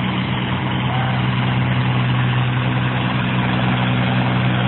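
John Deere 4020 tractor's six-cylinder engine running at a steady speed with an even, low drone.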